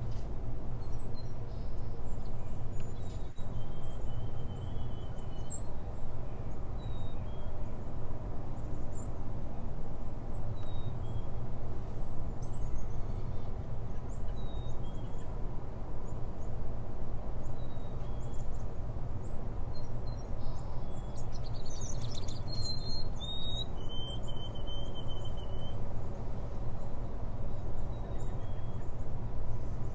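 A steady low background rumble, with small birds chirping and whistling now and then. A longer whistled phrase comes about two-thirds of the way through.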